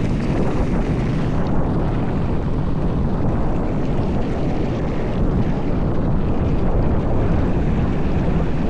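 Mountain bike descending a dirt trail: a steady rush of wind on the action-camera microphone over the rumble and chatter of tyres and bike on the rough ground.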